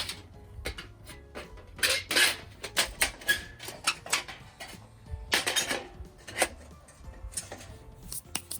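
Metal gear clinking and clattering in a series of separate knocks, as a small metal fire pit is handled and set up. Background music plays under it.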